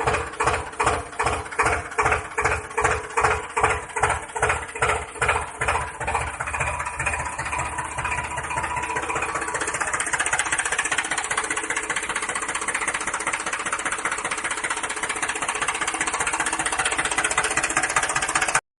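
Small motor of a DIY miniature tractor water pump running, at first chugging in regular pulses about three a second, then speeding up after about seven seconds into a steady buzz.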